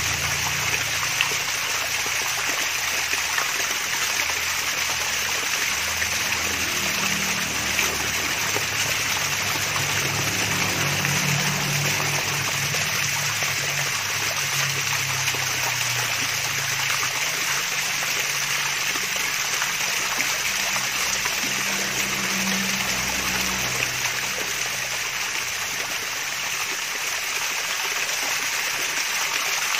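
Water from a mini waterfall splashing and trickling steadily in a continuous hiss.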